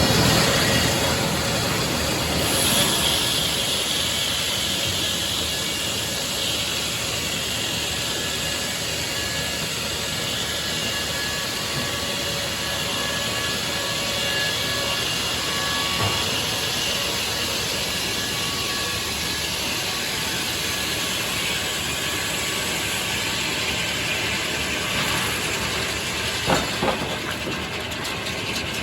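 Portable sawmill running with a steady mechanical noise and faint steady tones, with a couple of short clicks or knocks partway through.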